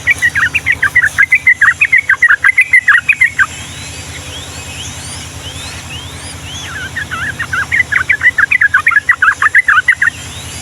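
Sooty-headed bulbul (trucukan) singing a long, rapid warbling phrase twice: one bout at the start lasting about three and a half seconds, and another from about six and a half seconds in, lasting about as long. Faint rising whistles come between the bouts, over a low steady hum.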